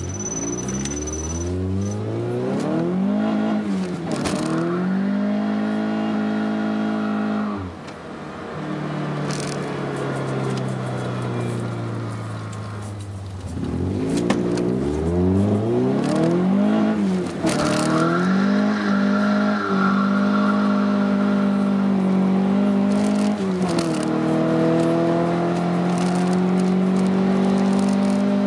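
Peugeot 306 2.0 16v four-cylinder engine breathing through an Ulter exhaust, pulling up through the revs with short dips at the shifts. The revs drop sharply when it lifts off about a quarter of the way in, then climb again and hold steady through the second half.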